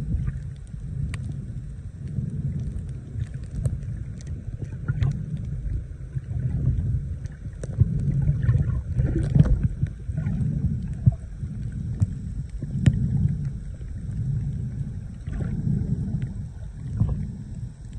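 Low rumbling noise that swells and fades every second or two, with a few faint clicks.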